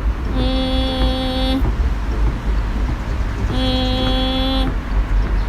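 A vehicle horn sounding twice, two steady blasts of about a second each, a couple of seconds apart, over a low background rumble.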